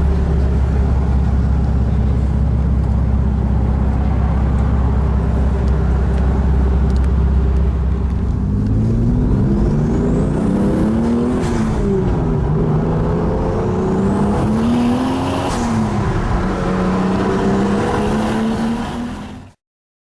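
Toyota Supra JZA80's twin-turbo 2JZ-GTE straight-six, breathing through an HKS Silent Hi-Power muffler, idling steadily. About eight seconds in it is revved up and down several times, with faint rising whistles at the peaks. The sound cuts off suddenly near the end.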